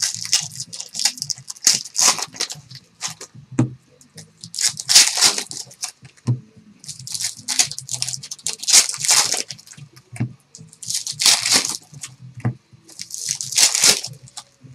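Plastic wrap and foil card-pack wrappers of a Panini Select basketball box being torn and crinkled open by hand, in several bursts of ripping and rustling. A low electrical hum runs underneath.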